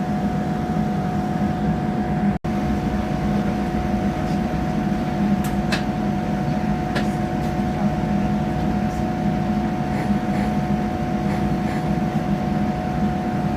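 Steady running noise of a moving train heard inside the passenger carriage: a low hum with a constant whine over it and a few faint clicks. The sound cuts out for an instant about two and a half seconds in.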